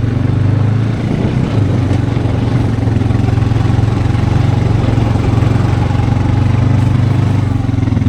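Four-wheeler (ATV) engine running steadily at a constant speed, with a brief dip about a second in.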